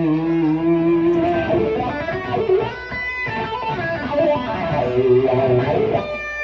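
Electric guitar, a Fender Elite, played through a Neural DSP Quad Cortex amp modeller and heard raw, without mixing: a chord rings for about a second, then a phrase of changing single notes and short chords follows.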